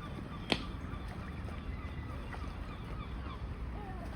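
A flock of seagulls and waterfowl calling over one another in many short, overlapping calls, with one sharp click about half a second in and a steady low rumble underneath.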